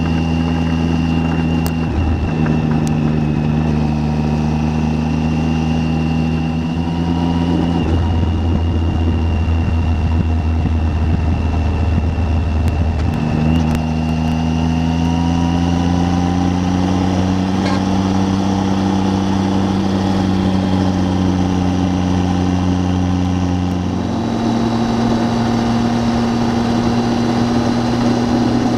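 Triumph Tiger 800's three-cylinder engine running steadily on the move. Its note shifts in pitch a few times.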